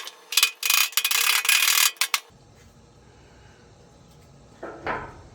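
Metal scraping and rattling against metal for about two seconds, a rough rasping sound with many small clicks, then a short, softer scrape near the end.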